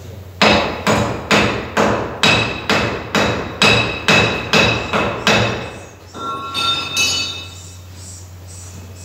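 A series of about a dozen sharp, ringing metallic strikes, roughly two a second, like hammer blows on metal. They are followed by a few brief high-pitched ringing tones.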